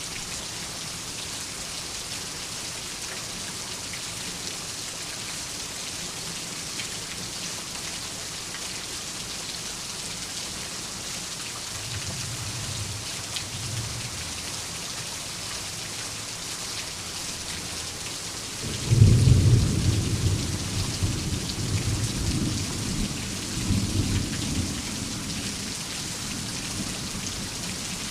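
Steady rain falling, with a faint distant rumble of thunder, then a clap of thunder about two-thirds of the way in that rolls on for several seconds and fades.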